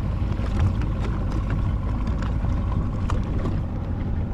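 Small motorboat under way: a steady low engine hum mixed with the rush of water along the hull.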